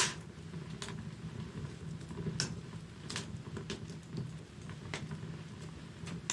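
Wood fire crackling in a fireplace: irregular sharp pops and snaps, a loud one at the start and another near the end, over a steady low rumble of the burning logs.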